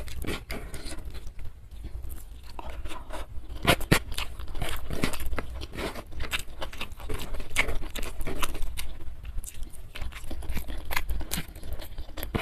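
Close-miked eating: chewing with irregular crunches and wet mouth clicks, and fingers working rice by hand on a wooden tray.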